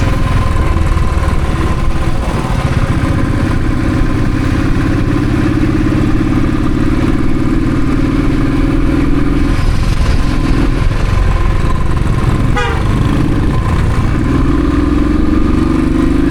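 Royal Enfield Thunderbird's single-cylinder engine running while riding, its pitch dropping and rising again several times with the throttle.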